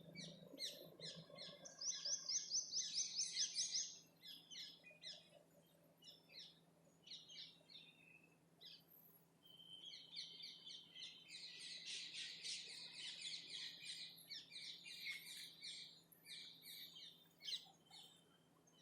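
Songbirds singing and calling, with scattered chirps throughout. A fast trill of repeated high notes runs from about two to four seconds in, and a longer, lower trill from about ten to sixteen seconds in.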